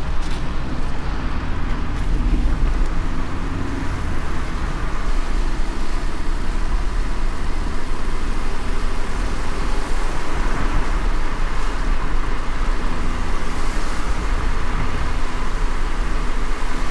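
Car driving in light rain: steady low road rumble with the hiss of tyres on the wet road, the hiss swelling for a few seconds about ten seconds in.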